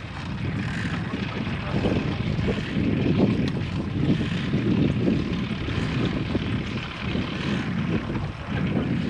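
Wind buffeting an action camera's microphone on a moving bicycle: an unsteady low rumble that rises and falls.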